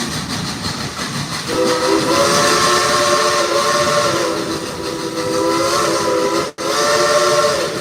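Steam whistle of narrow-gauge Baldwin 2-8-2 locomotive No. 192 sounding a long chord blast of several notes at once, starting about a second and a half in. It is followed by a shorter blast after a split-second break. Steady train running noise and hiss lie underneath.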